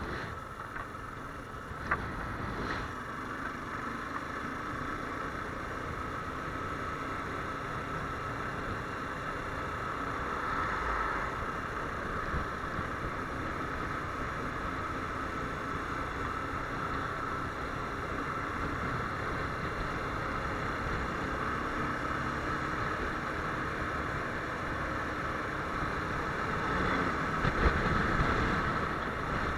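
Viper R2 motorcycle engine running steadily under way, with wind rushing over the microphone.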